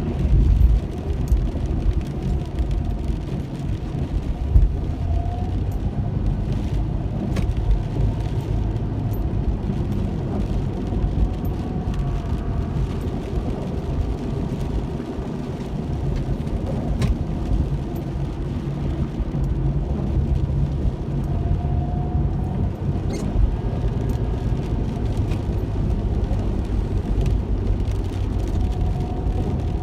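Car cabin noise while driving: a steady low rumble from the engine and tyres on the road, with a faint tone that comes and goes and a few scattered small clicks.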